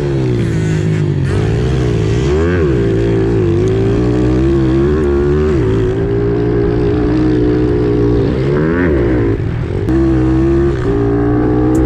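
Pit bike engine running hard, its revs dropping and climbing again several times as the throttle is shut and reopened.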